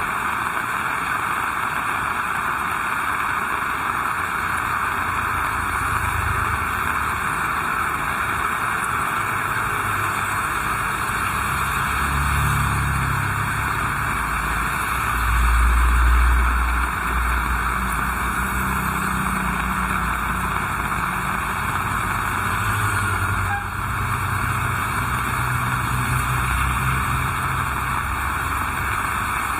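Heavy rain falling in a steady hiss, with a low rumble swelling and fading beneath it. The rumble is loudest about halfway through.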